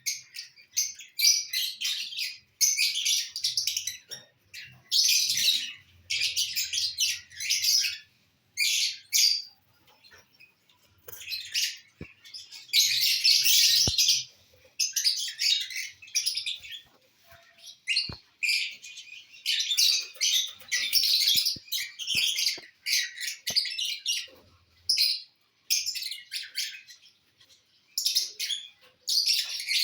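Pet lovebirds chattering in repeated high, shrill bursts of chirps. Each burst lasts from a fraction of a second to about a second, with short pauses between.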